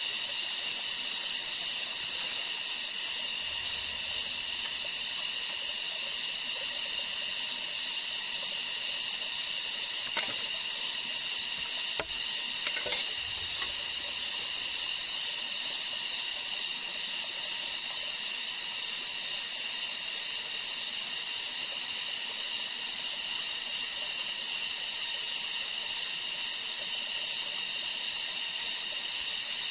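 Steady high-pitched drone of a rainforest insect chorus, an even hiss with several held tones, with two faint knocks about ten and twelve seconds in.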